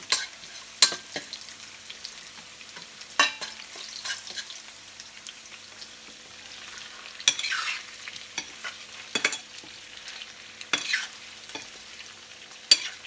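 Garlic frying in oil in a pan, a steady faint sizzle, with a utensil scraping and knocking against the pan a dozen or so times as it is stirred.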